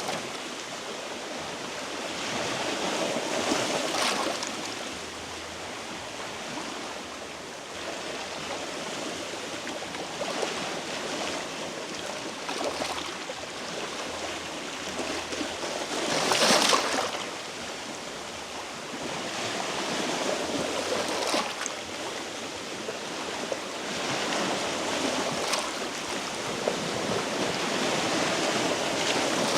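Sea waves washing against shoreline rocks: a steady rush of surf that swells every few seconds, loudest about halfway through.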